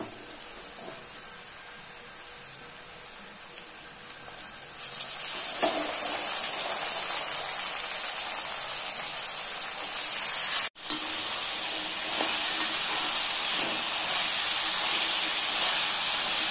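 Oil sizzling in a kadai with onions, green chillies and curry leaves. The sizzle gets clearly louder about five seconds in as wet boiled chickpeas go into the hot oil. It cuts out abruptly for an instant about two-thirds of the way through.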